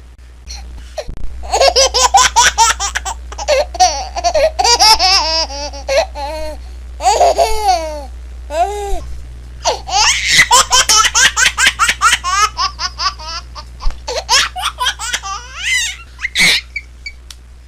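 A baby laughing in several bouts of quick, high-pitched giggles and belly laughs, with short pauses between bouts.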